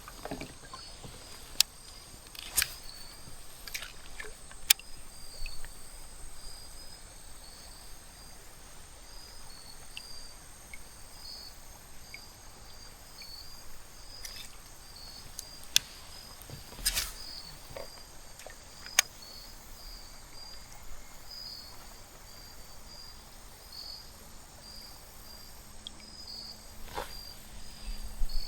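Crickets chirping steadily outdoors: a constant run of short, high, evenly spaced chirps. A few sharp, brief clicks come and go across it, the loudest a little past the middle.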